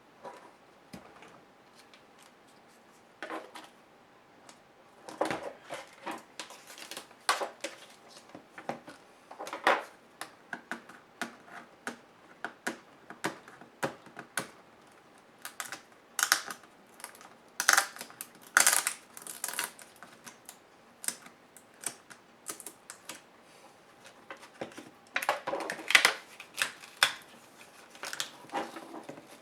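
Irregular clicks, taps and light rattles of the laptop's plastic and metal parts being handled and pried apart by hand, coming in clusters with short pauses between them.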